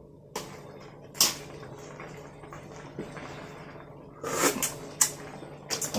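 Eating sounds at close range: a few short crunches and clicks spread over the stretch, with a louder crunchy burst about four seconds in.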